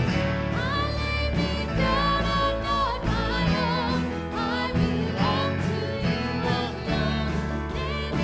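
Congregational or choir hymn singing with instrumental accompaniment, the voices entering about half a second in over sustained accompanying chords.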